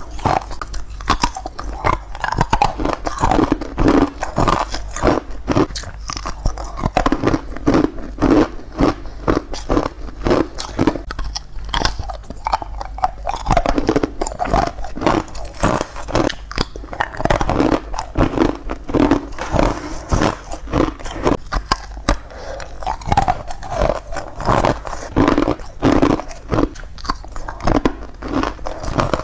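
Ice being bitten and crunched between the teeth close to the microphone: a dense, continuous run of crisp crunches, several a second.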